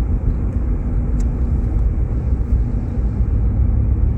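Steady low rumble of road and engine noise inside a Jeep Grand Cherokee's cabin as it drives slowly on a snow-covered road.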